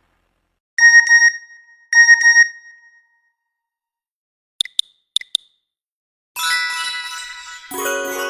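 Nokia 6110 Navigator ringtones playing through the phone's speaker. First come two short bursts of quick, high beeps about a second apart, then four brief clicks in two pairs. About six seconds in, a new polyphonic ringtone melody starts, and a lower, fuller part joins near the end.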